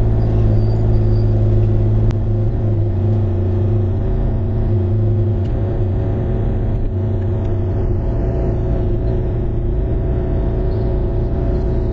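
Bobcat E35i mini excavator's diesel engine running steadily under work, a loud low hum that eases slightly about two seconds in.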